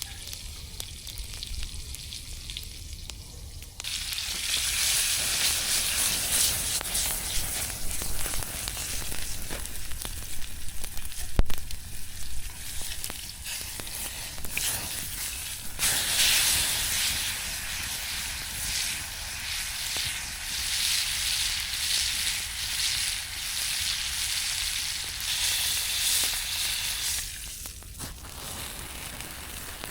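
Ribeye steak sizzling over a campfire. The sizzle grows loud about four seconds in, swells again about halfway through and drops back near the end. A single sharp knock comes about eleven seconds in.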